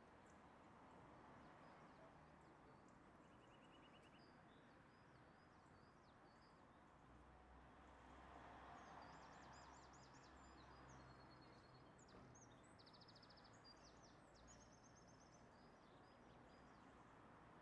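Near silence: faint birds chirping and trilling over a soft background hiss.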